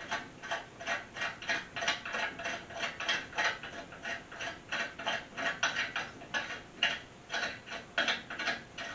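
Hand ratchet wrench clicking in short, regular strokes, about three or four clicks a second, as a bolt on a steel engine stand is backed out.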